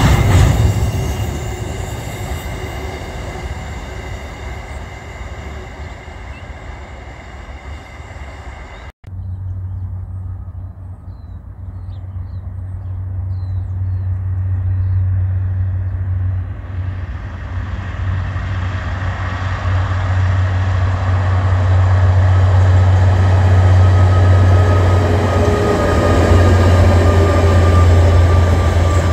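A long freight train of covered hopper wagons rolling past, steel wheels clattering on the rails with steady high-pitched squealing, fading as it goes. About nine seconds in, an abrupt cut to a KiwiRail diesel locomotive hauling container wagons: a deep, steady engine drone that grows louder as it approaches, with a faint whine near the end.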